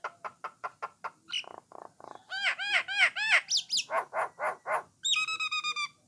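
Jalak Nias (brown starling) singing: a rapid, varied string of sharp clicks and quick arched whistles repeated several times a second, ending with a short run of notes that step down in pitch.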